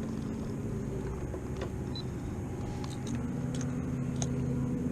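Motorboat engine running with a steady low drone; its note steps up and grows louder about three seconds in, as if the throttle was opened. A few faint clicks sit over the drone.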